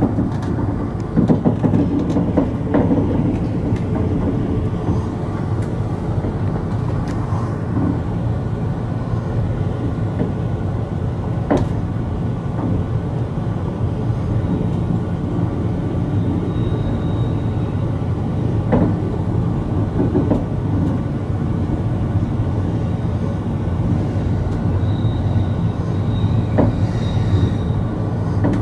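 Steady rumble of a freight train's boxcars rolling past close alongside, heard from inside a passenger train's room, with scattered clanks and brief faint high wheel squeals in the second half.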